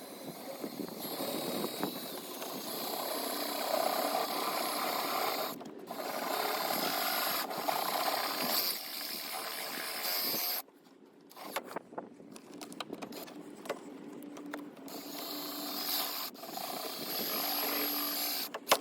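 Electric drill boring out a battery terminal post, the bit grinding through metal in runs of a few seconds, with a stretch of lighter scraping and clicking between the second and last runs.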